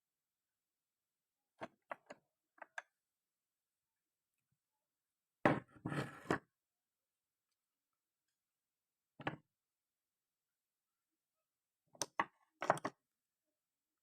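Scattered short knocks and clicks of small hard objects being handled, in small groups with dead silence between; the loudest cluster comes about halfway.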